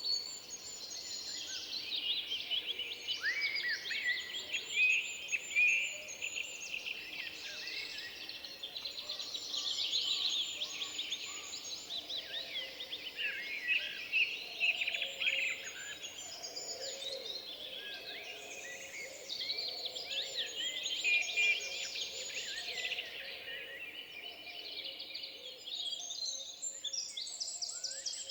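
A chorus of songbirds singing over one another in a forest, with many overlapping chirps and trills throughout and fainter, lower-pitched song beneath.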